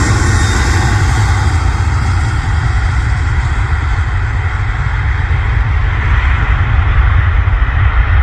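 Airbus A330-300's General Electric CF6 turbofans at takeoff power, a loud steady jet rumble. The high hiss fades over the few seconds as the aircraft moves away.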